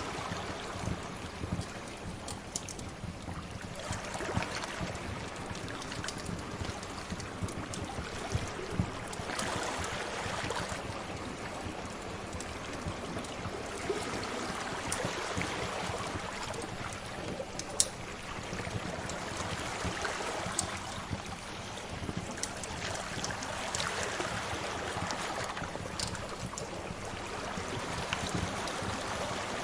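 Ocean waves washing ashore, the noise swelling and ebbing every few seconds, mixed with the scattered sharp pops of a crackling wood fire. The loudest pop comes a little past the middle.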